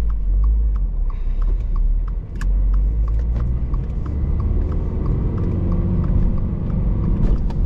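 Bone-stock 2.4-litre FA24 flat-four sports-car engine and exhaust heard while driving: a steady low rumble that dips briefly about two seconds in, then an engine note that climbs as it revs up.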